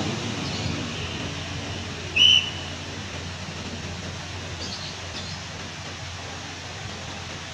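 A passing passenger train's rumble fading as it pulls away, settling into a steady low background. About two seconds in, one short, high, slightly rising whistle cuts through, louder than the train.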